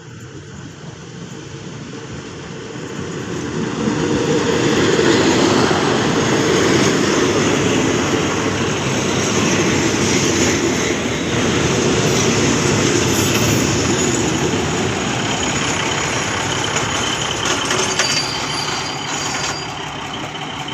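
Local passenger train running past, with loud rumbling wheel-and-rail noise that builds over the first four seconds and then holds steady.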